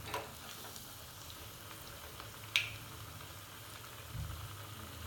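Noodle cutlets frying in hot oil with a steady sizzle. There is a sharp click about halfway through and a dull low knock near the end.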